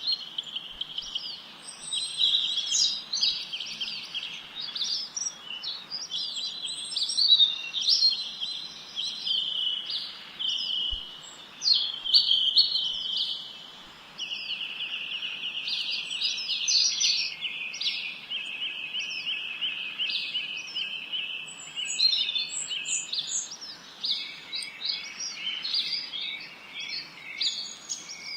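Songbirds singing and chirping without a break, several voices overlapping in fast trills and short high chirps.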